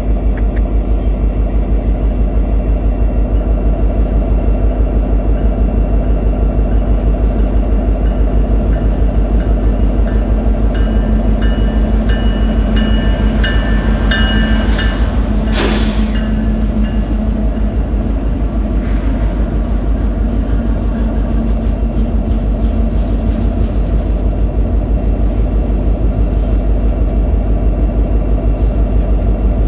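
Union Pacific freight train's cars rolling past, a loud steady rumble with a fast even beat from the wheels. A few high, thin squeals come in around the middle.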